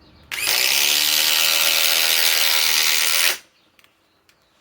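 DeWalt XR DCF845 cordless impact driver driving a 4-inch TimberLOK structural screw into wood, hammering steadily for about three seconds, then stopping abruptly as the screw seats.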